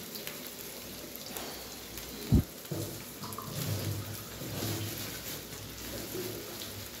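Chopped onions frying in hot oil in a kadai: a steady sizzle, with one sharp thump about two and a half seconds in.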